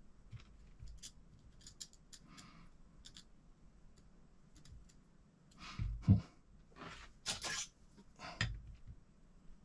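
Small parts and hand tools being handled while assembling an RC car kit: light scattered clicks and rustles, then a few louder knocks and scrapes in the second half.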